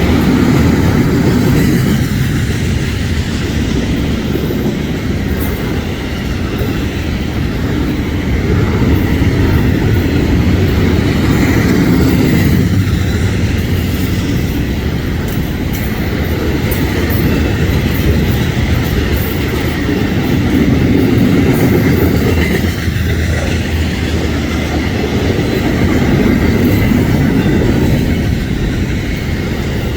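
Florida East Coast Railway freight train's cars rolling past at close range: a steady, loud rumble of steel wheels on rail that rises and falls every few seconds as the cars go by.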